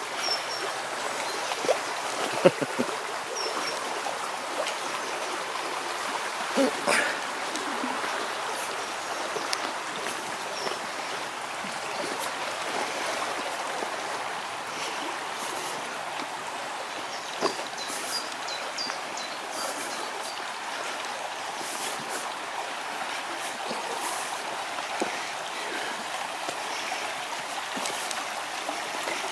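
Small river running over rocks: a steady rush of water, with a few short knocks near the start and again briefly later on.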